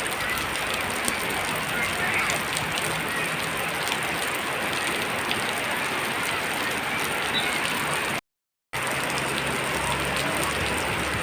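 Heavy rain falling steadily, a dense even hiss with no letup, interrupted by a half-second gap of silence about eight seconds in.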